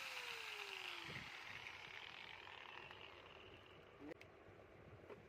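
Angle grinder winding down after being switched off: a falling whine fades over about the first second and ends in a soft thump, leaving near quiet with a couple of faint clicks near the end.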